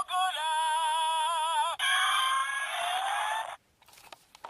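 Small speaker of a Zyuoh Changer Final toy playing an electronic sound effect: a pitched, wavering cry for about a second and a half, then a noisier call with rising tones that cuts off suddenly about three and a half seconds in. A few faint clicks follow near the end.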